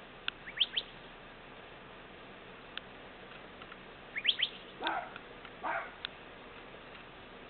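Small birds chirping: scattered clusters of quick, sharp chirps, with two short, harsher, rougher sounds about five seconds in.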